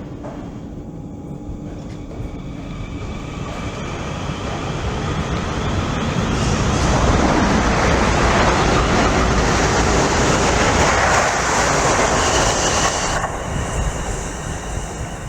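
A train passing on the railway line, growing louder from about three seconds in, loudest through the middle, and dropping away suddenly near the end.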